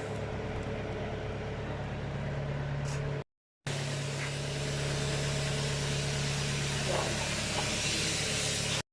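Nissan Tiida/Versa four-cylinder petrol engine idling steadily, broken twice by brief cuts to silence.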